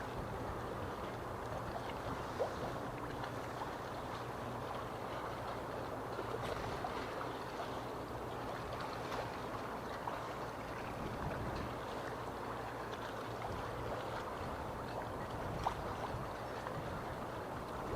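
Harbour water lapping and sloshing against the marina, a steady wash of small waves over a continuous low hum, with two small knocks, one about two seconds in and one near the end.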